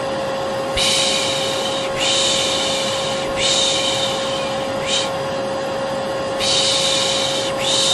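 A vacuum cleaner runs steadily with a constant motor hum. Over it a person makes repeated 'shh' shushing sounds to soothe a baby to sleep: about five long hushes of a second or so each, plus one brief one about five seconds in.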